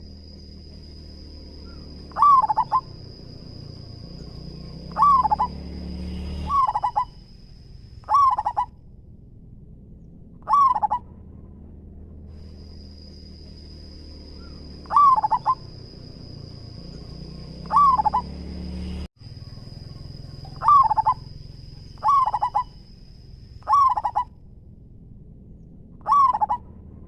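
Zebra dove (perkutut) cooing in loud short phrases, about eleven of them at uneven gaps of two to three seconds. A steady thin high whine runs beneath most of the calls.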